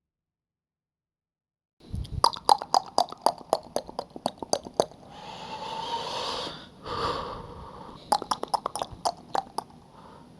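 A performer's mouth sounds: after about two seconds of silence, a quick run of tongue clicks, about five a second, then a long breathy hiss of exhaled air and a shorter one, then another run of clicks near the end.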